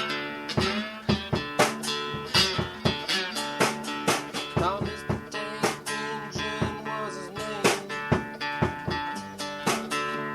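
Acoustic guitar playing, a steady run of picked notes and strums, with a few notes bent in pitch about halfway through.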